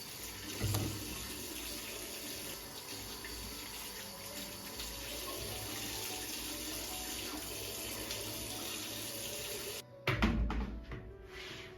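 Tap water running steadily into a sink, cutting off suddenly near the end, followed by a few short knocks.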